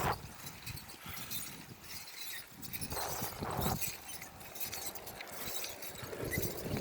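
Bicycle being ridden along an outdoor path: tyres rolling with irregular crackles and clicks, and a louder rattling patch about three seconds in.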